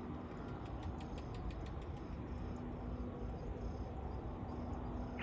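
Steady low outdoor rumble with a faint steady hum, insects chirping in a repeating high pattern, and a quick run of light clicks about a second in.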